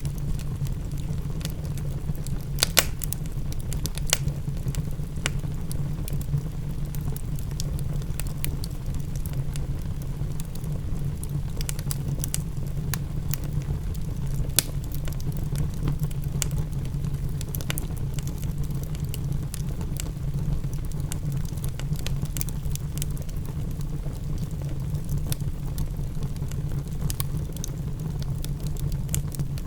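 Fireplace crackling with scattered sharp pops, a few louder ones, over a steady low rumble of rain.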